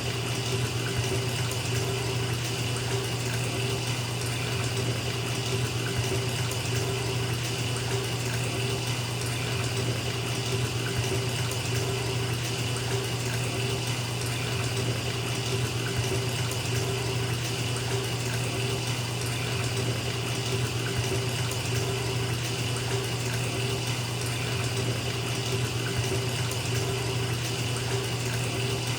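Bathtub filling from a running tap: a steady, unbroken rush of water pouring into the tub.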